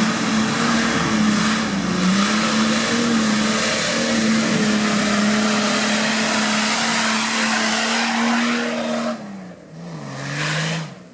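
Off-road vehicle's engine held at high revs with a steady pitch for about nine seconds, then dropping off, with one short rev before it falls away near the end.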